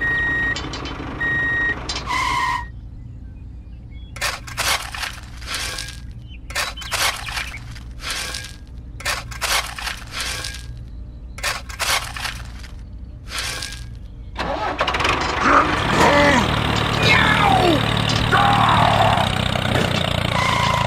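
Small stones dropped one after another into a toy tractor's plastic tipper trailer, making a long series of separate clattering knocks over a steady low engine hum. This follows a few steady beeps near the start. About two-thirds of the way through, a louder, noisier engine sound with sliding squeals takes over.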